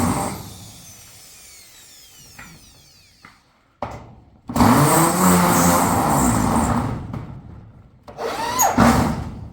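A small motor running in three bursts, its pitch rising and falling: one fading out just after the start, a longer run from about four and a half to seven seconds, and a short burst near the end.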